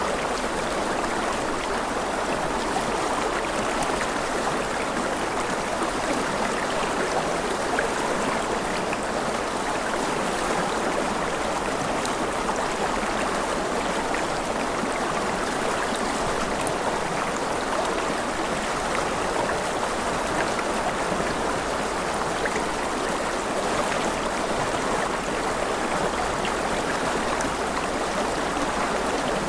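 A stream's running water: a steady, even flow with no breaks.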